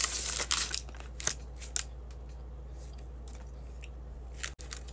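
Biting and chewing a frozen protein bar close to the microphone, with a cluster of crisp crunches in the first two seconds, then only faint chewing.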